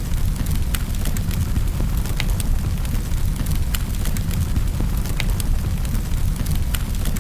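Wood fire burning in a fireplace: a steady low rumble with sharp crackles and pops at irregular intervals, several each second.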